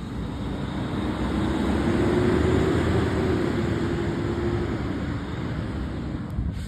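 Fire apparatus driving past, its engine and road noise swelling to a peak about two to three seconds in and then fading, with a steady drone that rises slightly and dies away.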